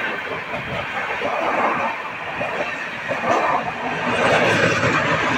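The New Delhi–Banaras Superfast express running, heard from on board: a steady rumble and rattle of the moving train.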